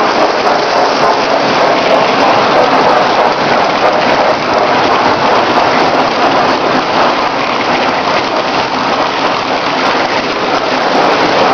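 Lionel model train running on Super O track: a loud, steady rolling noise of wheels and motor with no pauses.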